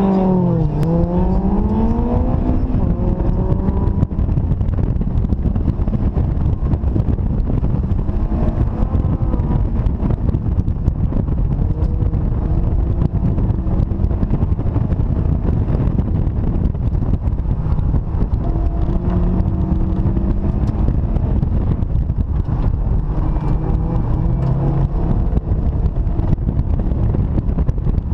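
Honda S2000's four-cylinder engine, driven hard from inside the open-top cabin, its pitch rising and falling with throttle and gear changes, under heavy wind buffeting on the microphone. Just after the start the engine note drops sharply at a shift, then climbs again as the car accelerates.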